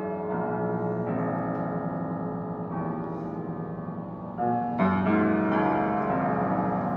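A piano being played by hand: a handful of chords and notes struck one after another, each left ringing.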